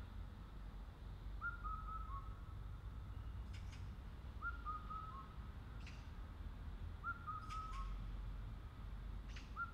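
A bird singing a short whistled phrase of three or four notes that step down in pitch, repeated about every three seconds, over a low steady rumble.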